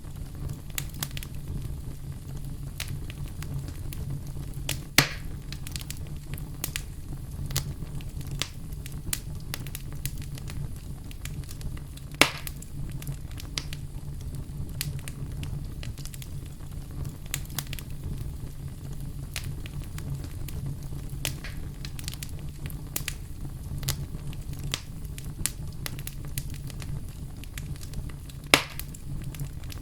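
Campfire burning: wood crackling steadily over a low rumble of flames, with three loud sharp pops about 5, 12 and 28 seconds in.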